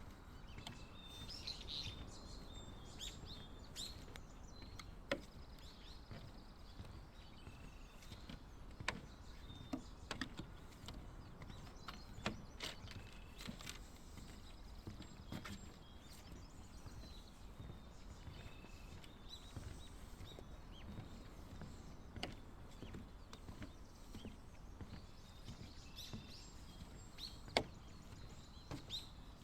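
Quiet wetland ambience: small birds give short high chirps now and then over a low steady background noise, with a few scattered sharp knocks.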